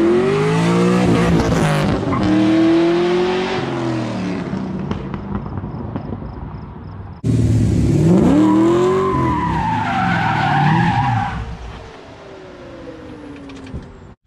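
LS-swapped V8 in a third-generation Camaro IROC-Z revving, its pitch climbing and falling, in two loud stretches, the second starting suddenly about seven seconds in. Tires squeal over the second stretch, and it dies down near the end.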